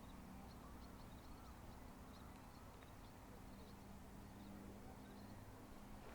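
Near-silent outdoor ambience: faint, scattered high bird chirps in the distance over a low, steady hum.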